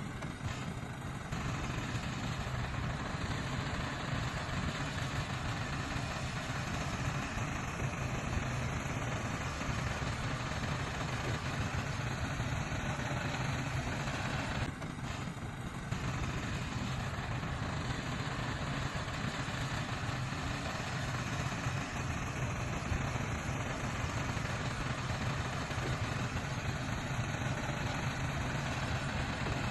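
Heavy diesel engine of earthmoving machinery running steadily at a low, even speed, with a brief dip about halfway through.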